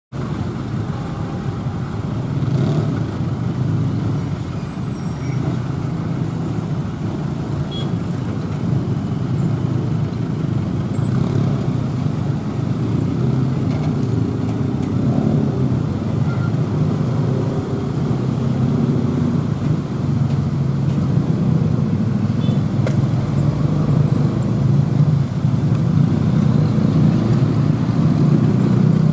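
Steady rumble of road traffic passing a level crossing, cars, trucks and motorcycles, slowly growing a little louder toward the end.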